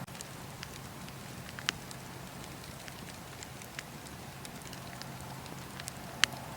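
Wood fire crackling in a fireplace: a steady soft hiss with scattered sharp pops and snaps, one loud pop a little under two seconds in and a louder one near the end.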